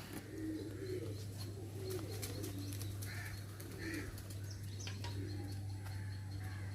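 Pigeons cooing in low repeated notes, with a couple of higher bird chirps about three and four seconds in, over a steady low hum.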